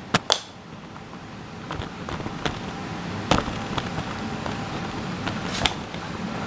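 Handling noises: two sharp clicks near the start, then scattered knocks and taps. Under them a furnace blower runs steadily, its rushing noise growing louder about a second and a half in.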